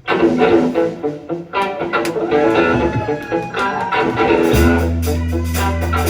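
A live rock band launches into a song: an electric guitar riff starts sharply with bending notes, and a bass guitar comes in about four and a half seconds in.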